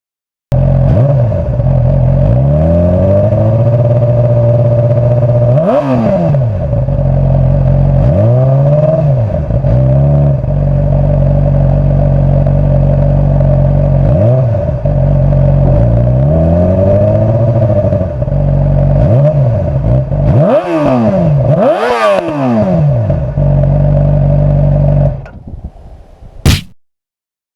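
Yamaha R6 inline-four through a TOCE exhaust, idling steadily with throttle blips: one rev about six seconds in and a cluster of revs a little past twenty seconds. The sound drops away near the end, with one short loud burst just before it stops.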